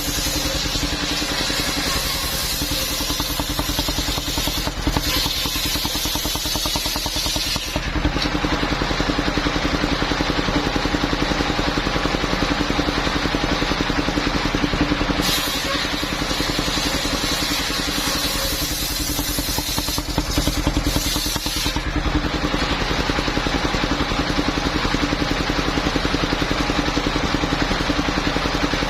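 The engine of a mobile circular sawmill runs steadily. For about the first eight seconds, and again for about six seconds a little past the middle, a high hiss joins it as the circular blade cuts through the coconut palm trunk.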